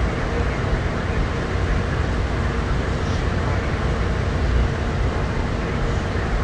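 Steady, low running noise of the Denver airport's rubber-tyred automated people-mover train moving along its concrete guideway through the tunnel, heard from inside the car.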